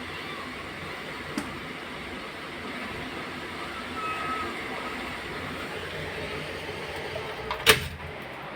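Steady noise of a storm, with a short sharp click about a second and a half in and a loud sharp knock near the end.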